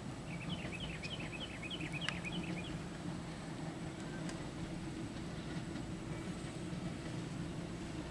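Steady low hum of a KRL commuter electric train in heavy rain, with a quick run of about a dozen short high chirps in the first few seconds.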